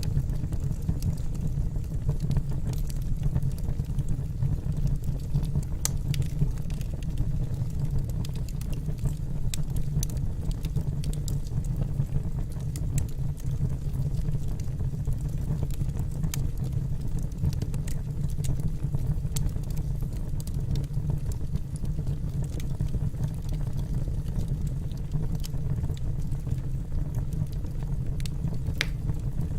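Wood logs burning in a fireplace: a steady low rumble of the fire with scattered sharp crackles and pops from the burning wood.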